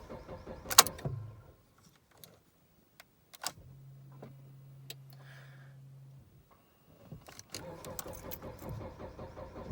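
Keys jangling and clicking in the ignition, a steady low hum for a couple of seconds, then the starter cranks and the 2014 Jeep Patriot's four-cylinder engine catches near the end on a cold start after sitting a week.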